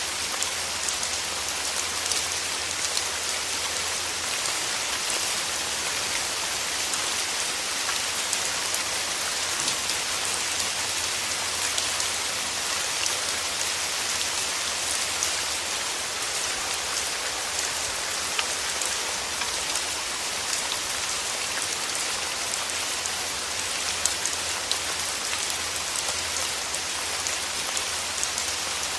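Steady rain falling, a dense even hiss with many fine drop ticks throughout.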